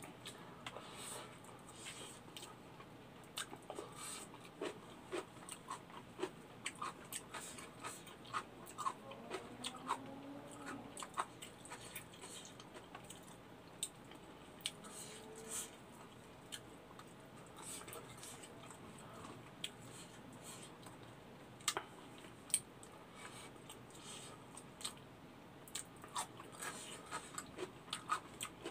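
A person chewing and eating by hand, close to the microphone: soft, irregular mouth smacks and clicks, with a few sharper clicks in the second half.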